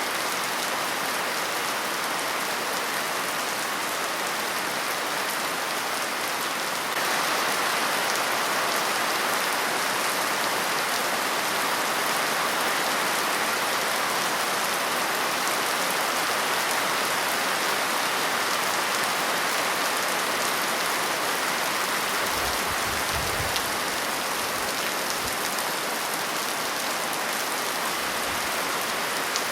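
Steady rain falling, a dense even patter that turns a little louder and brighter about seven seconds in. A brief low rumble comes a little after the middle.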